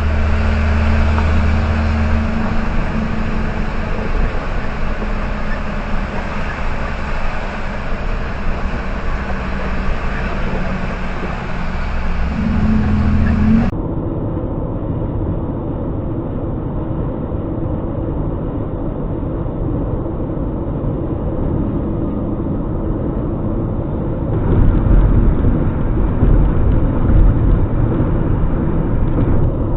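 Steady vehicle driving noise, engine and road rumble, across successive dashcam recordings; the sound changes abruptly about halfway through and again near the end.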